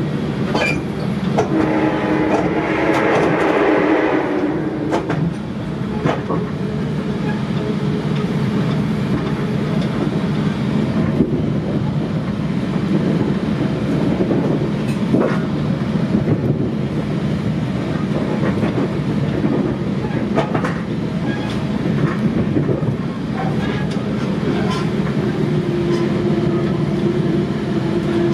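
Interior running noise of a commuter-train passenger coach rolling along the rails: a steady rumble with scattered clicks over rail joints and switches. A louder, brighter stretch with a steady tone comes about two to five seconds in.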